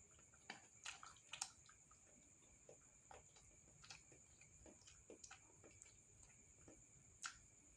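Faint eating sounds: scattered soft clicks and ticks of chewing and of a utensil against the dish, the clearest about a second and a half in and again near the end, over a steady faint high-pitched whine.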